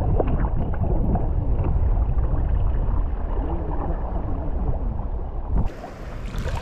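Steady low rumble of wind on the microphone of a sea kayak out on open water, with faint wavering tones above it. About five and a half seconds in, the sound changes abruptly to a brighter, hissier recording.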